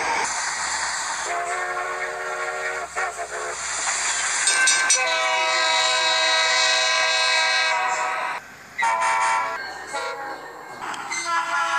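Train horns sounding in several long, steady blasts, one after another, with a short break about eight seconds in.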